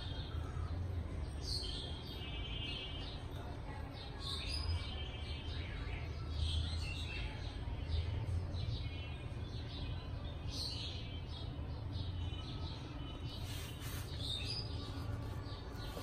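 Birds chirping on and off, short high calls and quick falling notes, some with a fast trill, over a steady low rumble.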